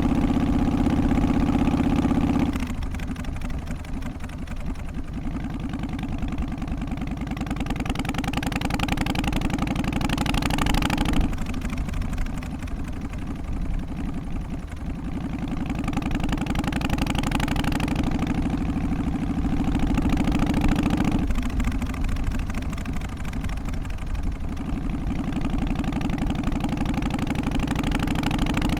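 Harley-Davidson Twin Cam 88 V-twin idling with its loping, uneven three-beat rhythm. The tone and loudness change abruptly about three times.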